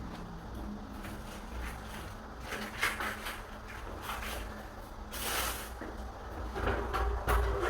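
Hands-on door repair work: scattered light scrapes and clicks, a half-second rush of scraping noise about five seconds in, and sharper knocks near the end.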